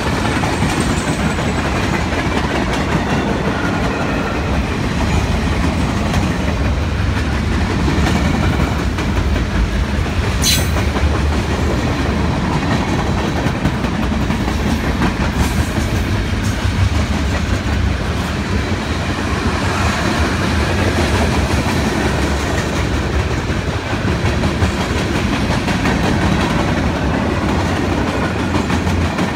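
Freight cars of a long manifest train rolling past close by: a steady rumble with wheels clicking over the rail joints. There is one brief sharp metallic sound about ten seconds in.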